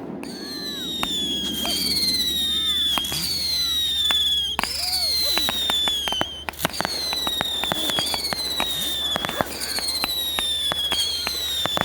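Consumer firework cakes firing a string of whistling shots: about eight whistles, each over a second long and falling slightly in pitch, come one after another, with sharp cracks and bangs between them.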